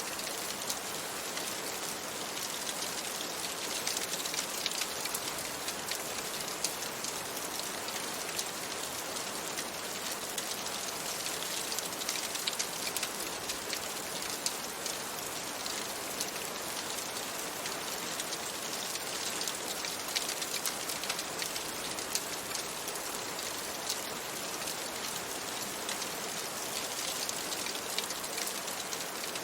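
Steady rain, an even hiss with many small sharp ticks scattered through it.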